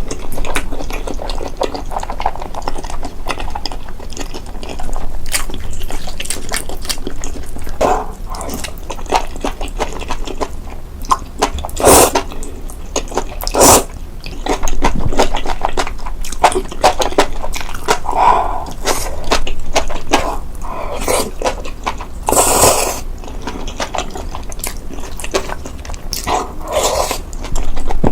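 Close-miked wet eating sounds: moist chewing and slurping of food, with many small sharp clicks and a few louder bursts along the way.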